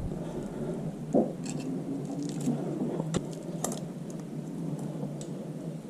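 Faint, scattered small clicks and light scraping of steel feeler gauge blades being handled and slid in to check valve clearance.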